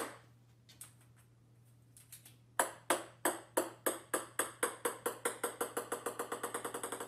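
A table-tennis ball bouncing on a wooden floor: a sharp knock at the start, then from about two and a half seconds in a run of bounces that come faster and fainter as the ball settles.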